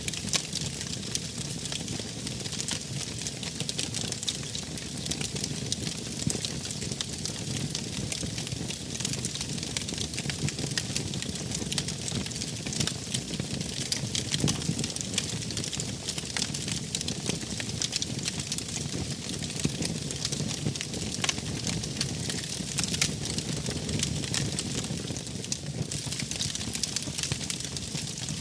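Wood fire burning in a fireplace, with a steady hiss and a continual run of sharp pops and crackles.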